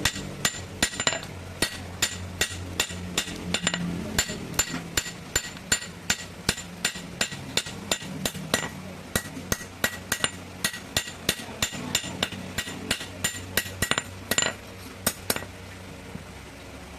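Blacksmith's hammer striking metal on an anvil in a steady run of about three blows a second, each with a bright metallic ring. The hammering stops about fifteen seconds in, leaving a low steady hum underneath.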